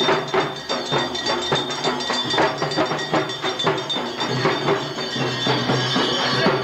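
Percussion music with a fast, driving beat of about five or six drum strokes a second and steady high ringing tones above it.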